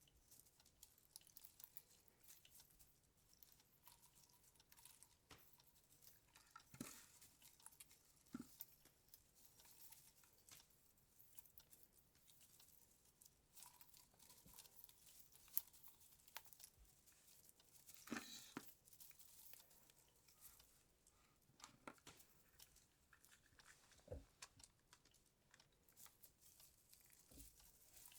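Faint rustling, crinkling and small clicks of a Christmas tree garland being handled and hung on the tree's branches, with a few sharper ticks and taps scattered through.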